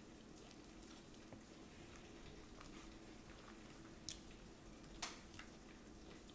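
Faint sounds of a person chewing salad, with a few short, sharp clicks about four and five seconds in.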